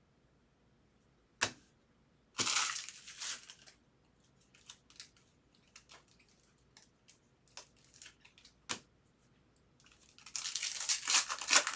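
Foil trading-card pack wrappers being crinkled and torn open, with light ticks of cards being handled in between. A sharp tap comes about a second and a half in, a short burst of crinkling soon after, and a longer, louder stretch of crinkling and tearing near the end.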